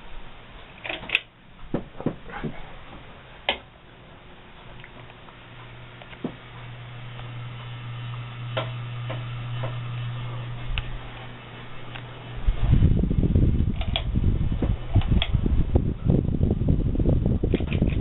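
Hampton Bay Landmark Plus ceiling fan running with a steady low motor hum, with a few sharp clicks in the first seconds. About two-thirds of the way in, a much louder low rumble with crackle takes over.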